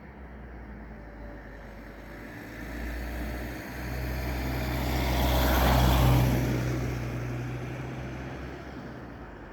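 A vehicle passing by: a low hum and a rushing noise grow louder to a peak about six seconds in, then fade away.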